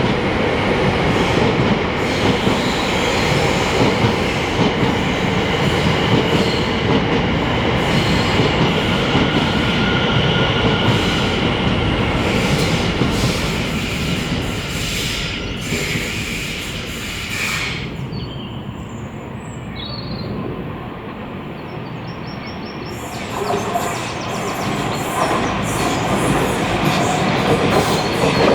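Two coupled Class 720 electric multiple units running past at line speed, with steady wheel-on-rail rumble and clickety-clack over the track. The noise dies away about two-thirds of the way through, then builds again as another Class 720 pair approaches.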